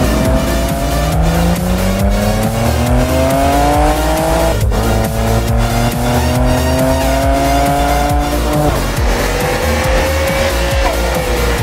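Sports-car engine accelerating through the gears, its pitch climbing, dropping sharply at a gear change about halfway through, climbing again, then shifting once more about three-quarters of the way in and easing off. Music with a steady beat plays underneath.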